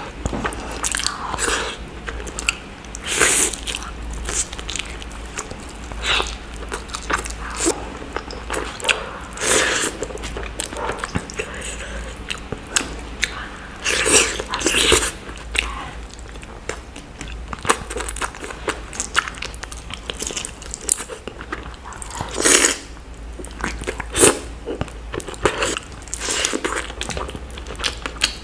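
A person eating close to the microphone, chewing and biting mouthfuls of curried egg and chicken taken by hand, in irregular bursts of mouth sounds. A faint steady low hum runs underneath.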